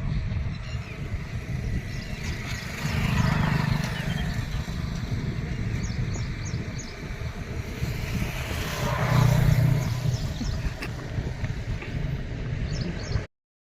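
Steady low outdoor rumble that swells twice, with a few short, high bird chirps. The sound cuts out abruptly just before the end.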